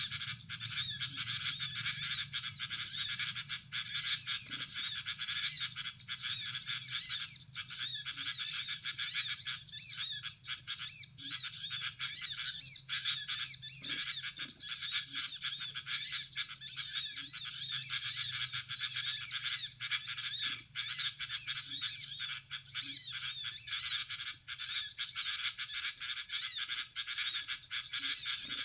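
Dense, unbroken chatter of rapid, high, arching chirps from small birds, with a faint low hum beneath.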